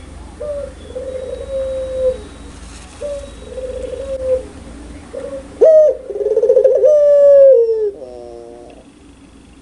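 Puter pelung, a domestic Barbary dove, cooing: a few drawn-out coos, then about halfway a louder, longer call with a quavering middle, the loud, clear 'laughing' (ngakak) coo prized in this bird. Faint high chirps sound over the loud call.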